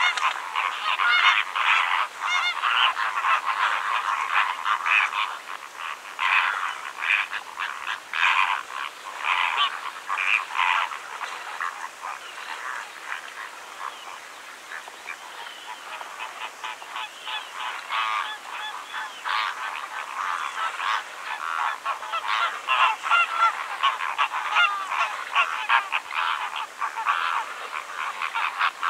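A flock of flamingos calling: many short overlapping calls in a steady chatter, thinning out for a few seconds near the middle.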